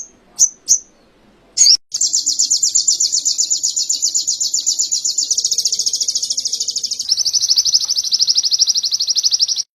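A sogon songbird singing canary-style song: a few short separate chirps, then about two seconds in a long, fast, high trill of rapid repeated notes, which shifts to a slightly lower trill around seven seconds in and stops near the end.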